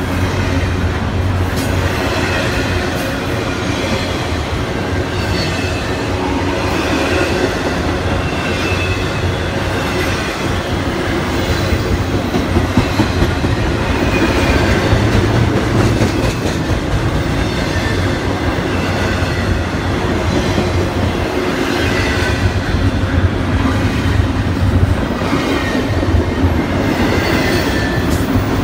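Norfolk Southern double-stack container train's well cars rolling past at close range: a steady loud rumble of steel wheels on the rails, with brief high wheel squeals now and then.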